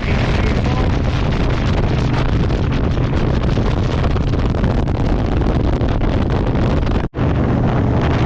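Harley-Davidson motorcycle running at road speed, a steady low engine drone under heavy wind noise on the microphone. The sound cuts out abruptly for an instant about seven seconds in.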